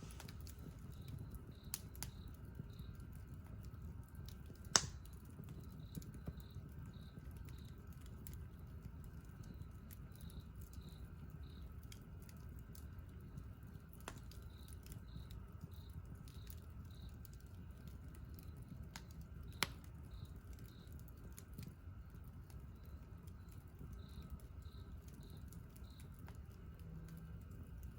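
Wood campfire burning with a low steady rumble and scattered small crackles; two sharp pops, about five seconds in and about twenty seconds in, are the loudest sounds.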